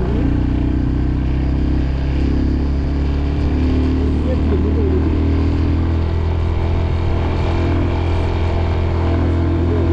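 Motorcycle engine running steadily while riding at a constant speed, a continuous drone with no revving.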